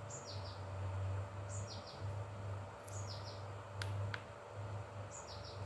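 A small bird repeating a short call four times: a quick falling note followed by two chirps. A low hum swells and fades underneath, and two sharp clicks come about four seconds in.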